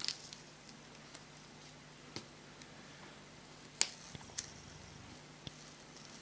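Scattered small clicks and ticks of a pry tool and plastic against a laptop screen panel as the panel is worked loose from its adhesive strips, about half a dozen, the sharpest nearly four seconds in.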